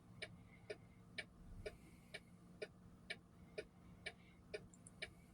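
Faint, even ticking of a vehicle's indicator flasher relay, about two clicks a second, over a steady low hum.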